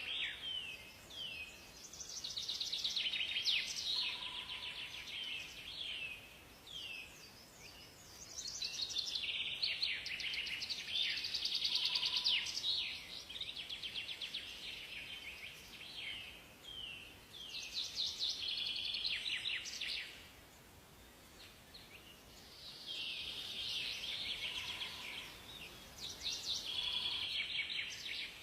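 Songbirds singing in a forest, in repeated phrases of rapid high chirps and trills, with a few short low whistles from another bird and brief lulls between bouts.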